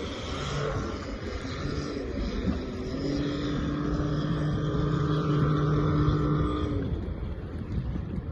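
Tohatsu 30 hp four-stroke outboard with an MSP flap exhaust running on an inflatable boat under way, its engine note holding steady from about three seconds in and then dropping away about seven seconds in. Wind and water rush is heard throughout.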